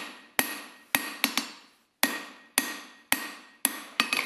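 Hand hammer striking hot steel bar on an anvil, about two blows a second, with some blows followed by a quick lighter tap. Each blow rings briefly. The round bar is being forged down to square section.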